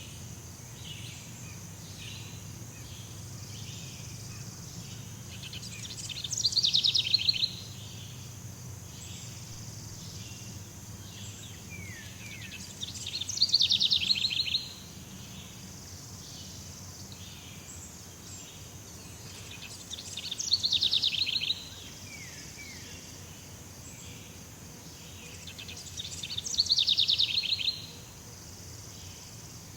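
Jungle ambience: a steady high insect hum under a loud, rapid pulsing call that repeats four times, about seven seconds apart, each lasting a second or two and cutting off sharply. Fainter chirps sound in between.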